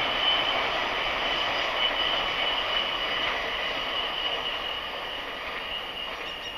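Container freight train wagons rolling past on the rails: a steady rumble with a high steady tone over it, fading as the end of the train goes by.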